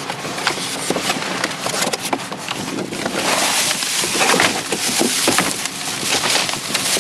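Rummaging through a pile of curbside trash: continuous rustling with many small, irregular clicks and clatters from objects being handled.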